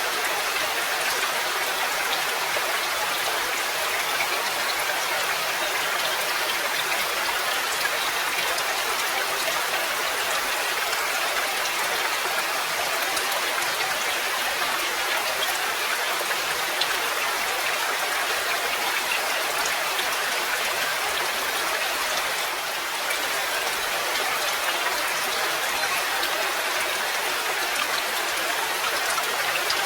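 Steady rain with many close individual drops ticking, forming an even hiss that dips slightly for a moment about three-quarters of the way through.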